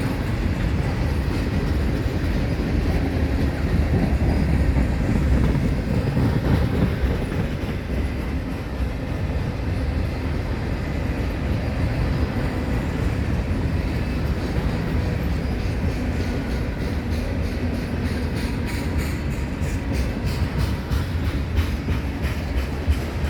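Freight train cars rolling past with a steady low rumble of steel wheels on rail. In the last few seconds there is a rapid run of clicks from wheels passing over rail joints.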